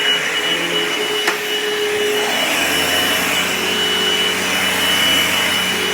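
Dirt Devil Envision Turbo upright vacuum cleaner running on carpet: a loud, steady rush of air with a high whine, and a single sharp click about a second in. About halfway through, a low hum sets in under the rush.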